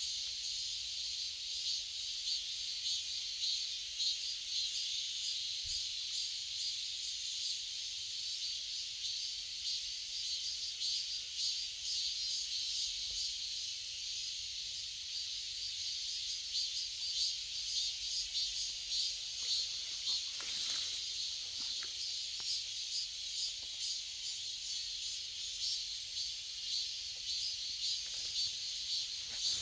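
Cicadas buzzing in a steady, high-pitched, finely pulsing drone.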